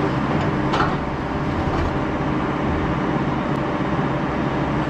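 Excavator's diesel engine running steadily, with a brief sharp sound about a second in.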